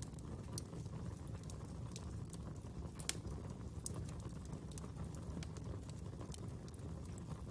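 Fire crackling, with irregular sharp pops over a steady low rumble and one louder pop about three seconds in.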